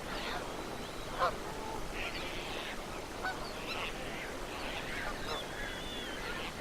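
A flock of geese calling, with many short honks overlapping without a break.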